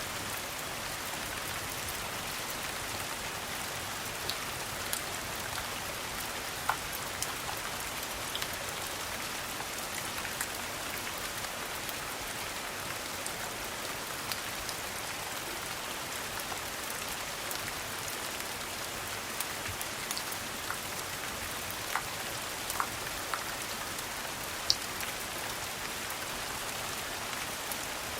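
Steady rain falling, an even hiss with a scattered few sharp ticks and pops.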